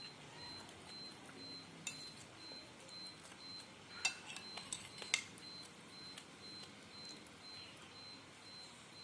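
Spoon and fork clinking against a bowl while eating noodles and meatballs: a light clink about two seconds in, then a cluster of sharper clinks around four to five seconds in. A faint, high, evenly pulsing tone sounds underneath.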